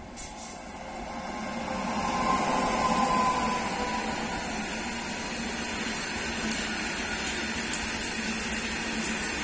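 Indian Railways WAG-9 electric locomotive hauling a loaded freight train through at speed: the running noise builds over the first two to three seconds as it closes in, peaks, then holds steady as the train rolls past. A faint whine is heard in the first few seconds and fades out.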